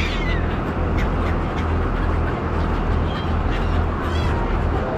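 Gulls calling in short cries over the steady low drone of a ferry's engine.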